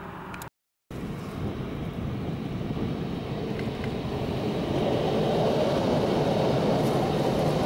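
Electric multiple unit train approaching and passing at speed: the rumble of wheels on rail builds up and is loudest in the second half. Under a second in, the sound cuts out briefly at an edit before the train is heard.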